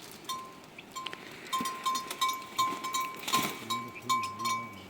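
A small livestock bell clinking over and over in short, uneven strokes at one steady pitch, with a low call underneath in the second half.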